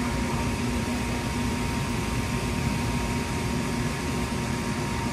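Steady hum and rumble inside a Kintetsu electric train, with a thin steady whine held throughout.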